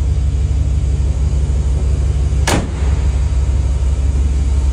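Dodge 1500's engine idling, a steady low rumble. A single sharp click or knock comes about two and a half seconds in.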